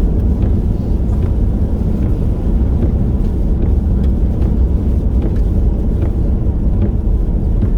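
Steady road and engine noise of a car being driven, heavy in the low end, with scattered faint ticks.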